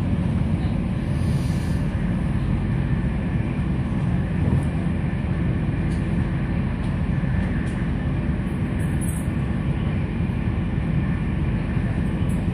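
Steady low rumble of a moving passenger train heard from inside the carriage: the wheels rolling on the rails.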